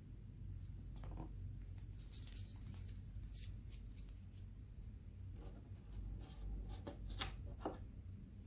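Light handling sounds: rustling and scattered small clicks, with two sharper clicks about seven seconds in.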